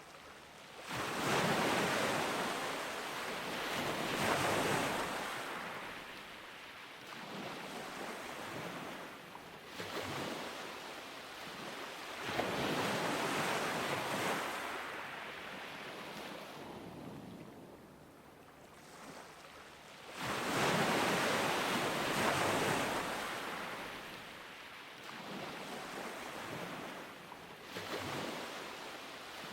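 Ocean surf breaking on a beach: waves crash and wash in, swelling and ebbing every few seconds, with the biggest breaks about a second in, near the middle and about two-thirds of the way through.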